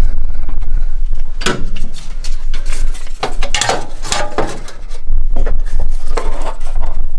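Irregular light metal clinks and knocks as a removed distributor and its parts are handled close to the microphone, with a low rumble of handling noise at times.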